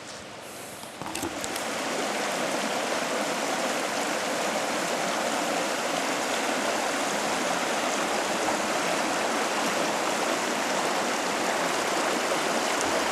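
Small river's water rushing steadily. It swells up over the first couple of seconds, with a few faint clicks about a second in.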